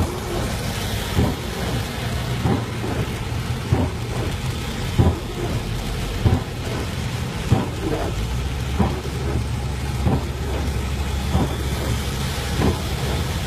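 Heavy rain pelting a moving car over a steady low rumble, with a short knock repeating about every 1.3 seconds.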